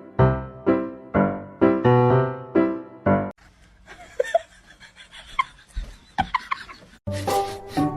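Piano music of repeated struck notes, about two to three a second, that cuts off suddenly a little over three seconds in. A quieter stretch with a few faint short squeaks follows, then a louder pitched sound starts near the end.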